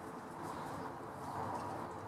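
Quiet outdoor background with a faint bird call.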